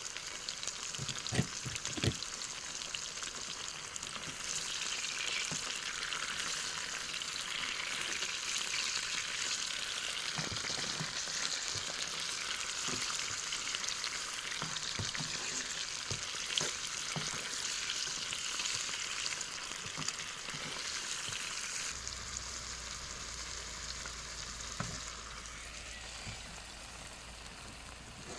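Food sizzling as it fries in a pan, with a few short knocks of a utensil against the pan while it is stirred. The sizzle eases a little near the end.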